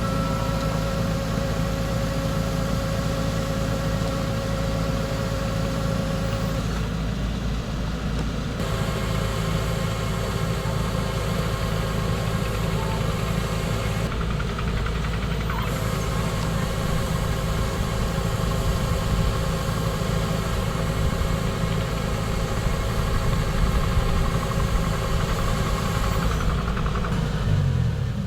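Rice combine harvester's engine and machinery running at a steady drone, with a brief drop in pitch near the end.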